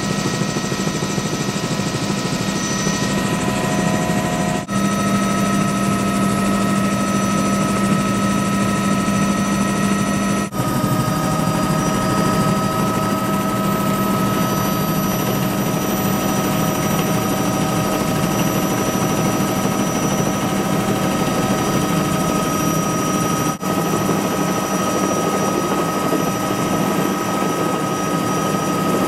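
Helicopter in flight, its rotor and turbine running steadily with a constant hum and whine. The sound drops out for an instant three times, changing slightly in tone after each break.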